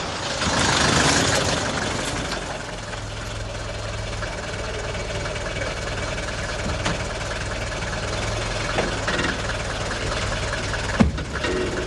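Mercedes-Benz W123 taxi's engine idling steadily, with a single knock about eleven seconds in.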